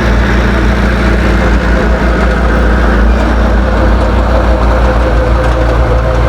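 Heavy diesel engine of a bulldozer running steadily at a constant pitch.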